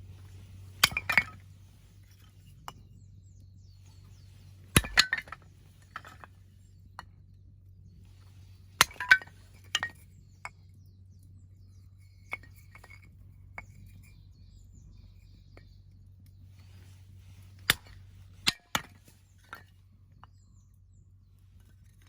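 Axe blows splitting firewood rounds: a sharp crack every few seconds, several followed by the knock and clatter of split pieces falling.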